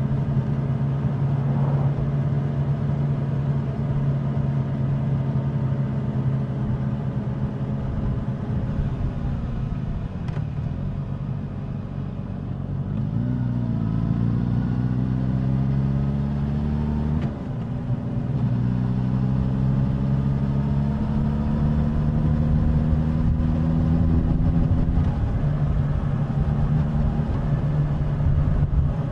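Suzuki GSX-S1000's inline-four engine and exhaust on the move. It holds a steady note, eases off, then climbs in pitch twice under acceleration, with a sudden drop between the climbs where a gear is changed.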